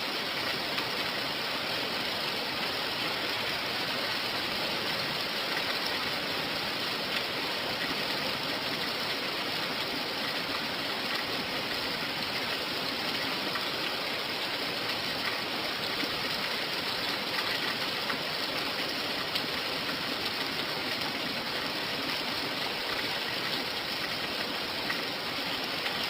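Steady rain falling, an even hiss of water with faint scattered drop ticks.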